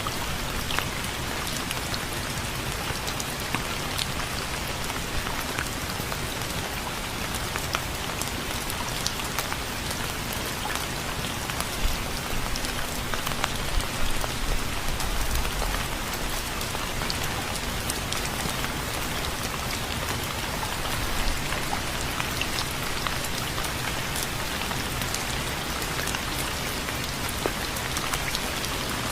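Steady rain falling: a constant hiss with many single drops ticking close by. A low rumble swells briefly about halfway through.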